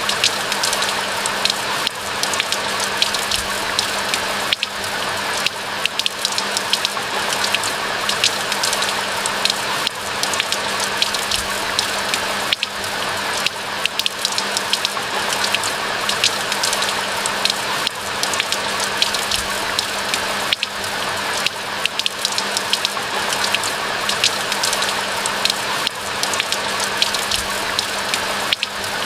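Steady rain falling, many close, sharp drop hits over an even hiss, with a faint steady low hum underneath.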